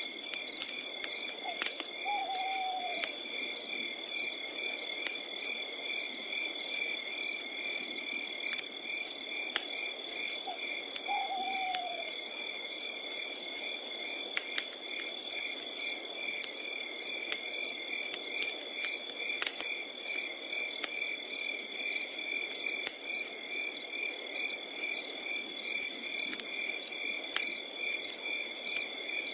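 Crickets chirping in a steady pulsing chorus, with wood crackling and popping in a campfire as scattered sharp snaps. Twice, about nine seconds apart, a short falling hoot like an owl's sounds below them.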